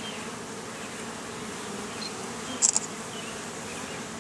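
Steady buzzing hum of many honeybees flying around an opened hive. Two brief sharp clicks come about two-thirds of the way through.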